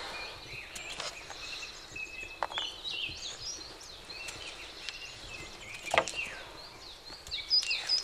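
Small birds chirping and twittering over a steady outdoor hiss, with a sharp click about six seconds in.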